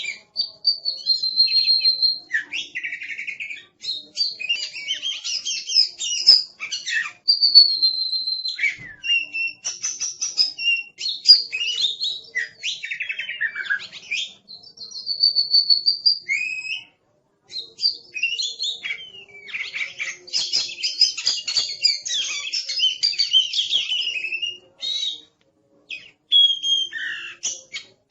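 Oriental magpie-robin (kacer) in full, aggressive song: a fast, varied run of high whistles, trills and rapid chattering notes, broken by a couple of short pauses.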